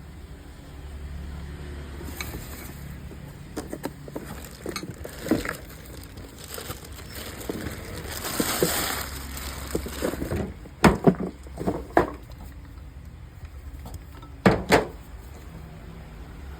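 Handling noises: scattered clicks and rustling, then a few sharp hard knocks, two close pairs about eleven and fourteen and a half seconds in, with no grinder motor running.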